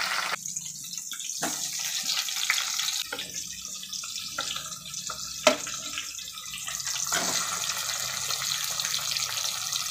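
Green chillies and cumin sizzling in hot oil in a pan, a steady hiss. A few sharp clicks break it, the loudest about halfway through.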